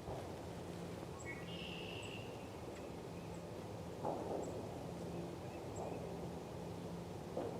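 Small songbirds calling at a feeder: a short nasal call about a second in, faint high chips every second or so, and lower falling sounds around four seconds in and near the end, over a steady low hum.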